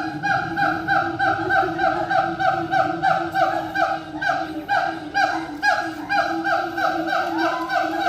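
Siamangs calling: a rapid, unbroken series of short falling hoots, about three a second, over a steadier lower note.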